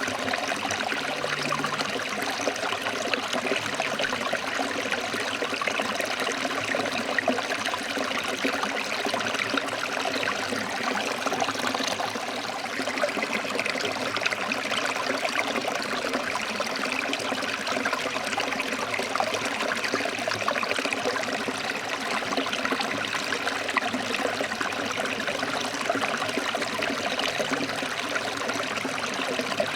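Forest stream flowing over rocks: a steady, even rushing and trickling of water.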